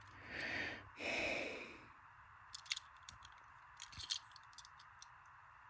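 A breath in and a longer breath out close to the microphone, like a sigh, followed by a few faint clicks and taps of a diecast toy car being handled.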